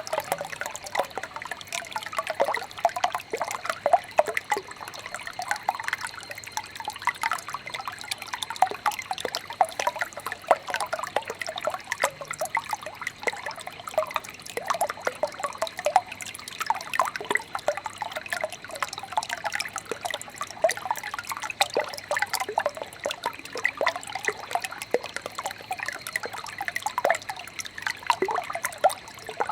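Small brook trickling and babbling, a steady stream of quick, irregular gurgles and drips.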